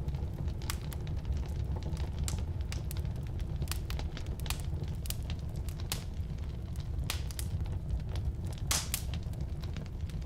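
Firewood burning in a fireplace: irregular crackling and popping over a steady low rumble of the flames, with a louder cluster of pops near the end.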